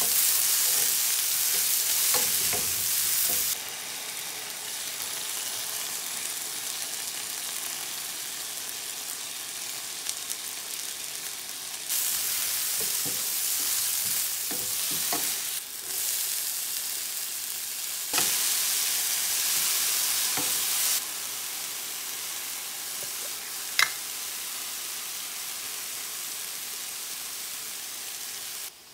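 Okra sizzling as it stir-fries in a nonstick frying pan, with a wooden spatula scraping and tapping the pan now and then. The sizzle steps louder and softer several times, and a sharp click comes near the end.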